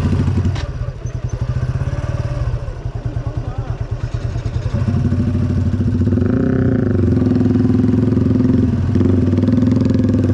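Motorcycle engine running on the move. It eases off and pulses about half a second in, then picks up again and runs steadily from about halfway through.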